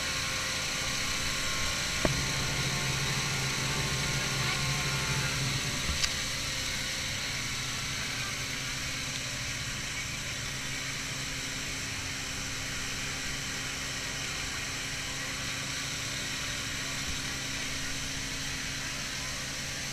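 A vehicle engine running steadily, with a sharp click about two seconds in and another about six seconds in.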